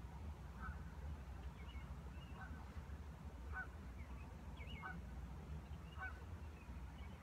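A bird calling in short, faint notes, five times, roughly one every second and a bit, over a steady low rumble.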